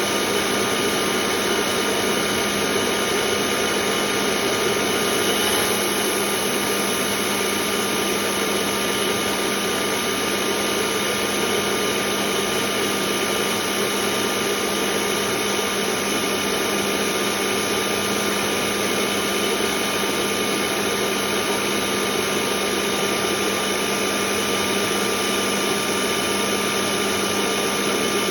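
Dumore tool post grinder's electric motor running steadily at constant speed, a strong low hum under a high tone and hiss.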